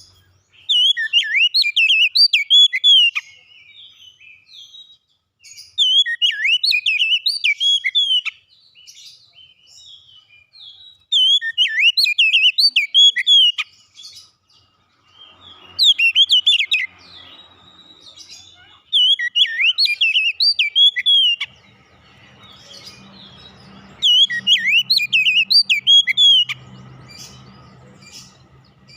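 Oriental magpie-robin (kacer) singing: six phrases of quick, varied whistled notes, each about two to three seconds long, repeated every five seconds or so.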